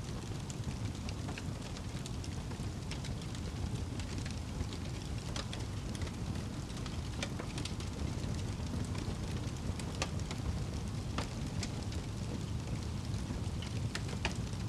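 Wood fire crackling, with scattered sharp pops every second or so over a steady low rumble.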